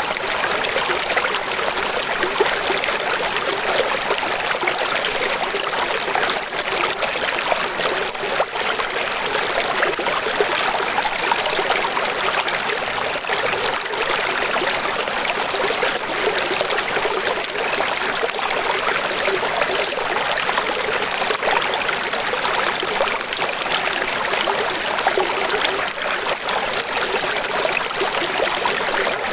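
Steady rushing water, an even hiss with little deep rumble and no breaks.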